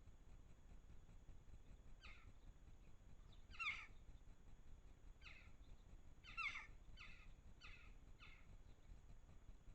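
A garden bird giving a series of short, sharp calls, each dropping quickly in pitch, about seven in all, the loudest two roughly a third and two-thirds of the way through, over a faint background hiss.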